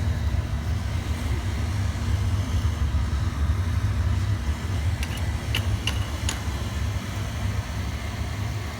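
Boiler burner firing: a steady low rumble, with a few sharp clicks about five to six seconds in.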